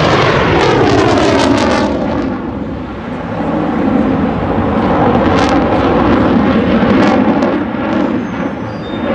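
Aircraft flying low past, its loud noise sweeping down in pitch over the first two seconds as it goes by, then a steady rumble.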